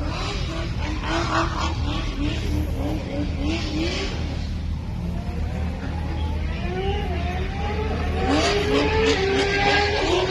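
Car engine revving in quick repeated rising blips, then in longer rising revs that grow louder near the end, over a steady low rumble of running engines.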